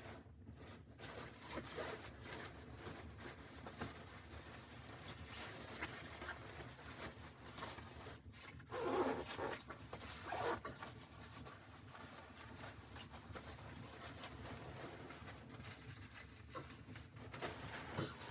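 Rustling and small clicks of gear being handled at close range, with two louder scraping sounds about nine and ten and a half seconds in.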